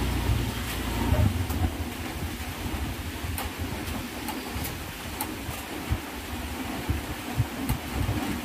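Wind buffeting the microphone with a low rumble over the steady hiss of light rain, with scattered sharp ticks.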